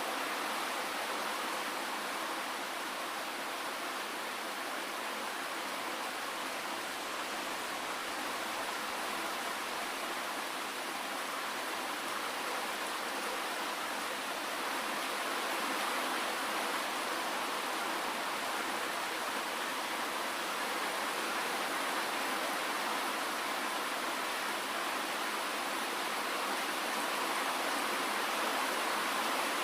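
Steady rainfall, an even hiss with no single drops standing out.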